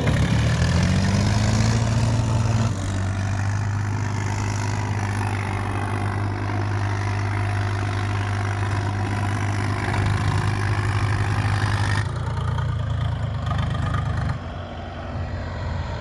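Tractor diesel engine running, its note climbing as it revs up in the first second or so, then holding a steady low drone, with the sound changing abruptly a few times.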